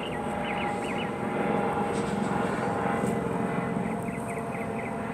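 Helicopter drone, steady with a few held engine tones, growing louder about a second and a half in. Short, rapidly repeated high chirps sound over it at the start and near the end.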